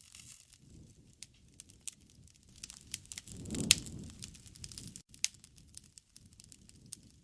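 Wood bonfire crackling with scattered sharp pops. A louder pop about halfway through comes over a short low rumble.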